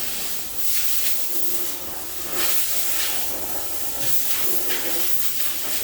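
Compressed air hissing in irregular bursts, like a spray gun or air blow gun in use in a body shop.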